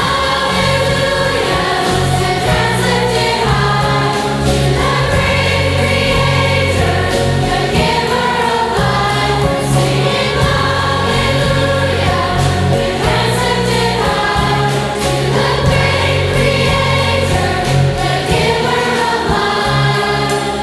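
A choir singing a hymn-like song with instrumental accompaniment; the accompaniment holds low notes under the voices.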